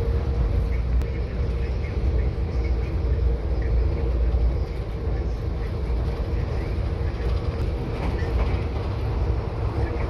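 Passenger train running at speed, heard from inside the carriage: a steady low rumble of wheels on the track, with a faint steady hum above it.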